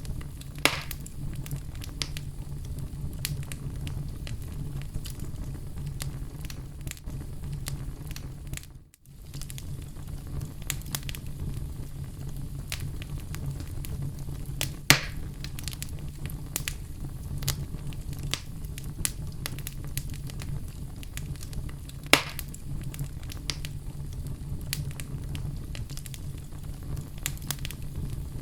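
Oak logs burning in a fireplace: a steady low rumble of flame with constant small crackles and three sharper pops. The sound briefly drops out about nine seconds in.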